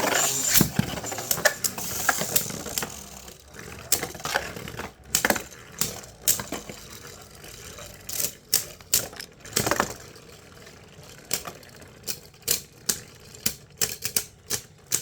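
Two plastic Beyblade spinning tops battling in a stadium: sharp plastic clacks as they strike each other and the stadium wall, over a faint whirr. The clacks come as quick runs of separate hits in the second half.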